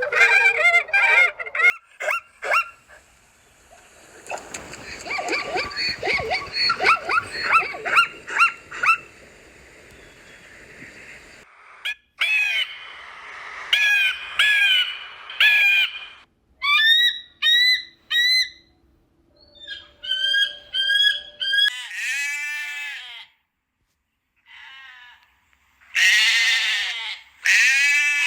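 A run of different animal calls one after another, mostly bird calls, each a short series of repeated calls with brief gaps between.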